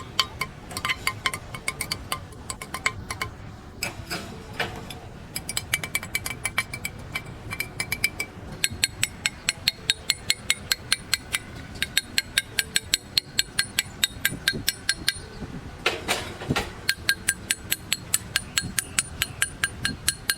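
Two sawdust charcoal briquettes tapped against each other in quick runs, about four or five taps a second. Each tap gives a hard clink with a bright, glassy ring, a test of the charcoal's quality by its sound. The pitch of the ring changes between runs.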